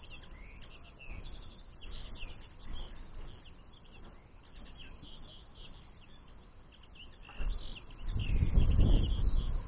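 Small songbirds chirping and twittering continuously in quick, high notes. Near the end a loud low rumble rises over them and becomes the loudest sound.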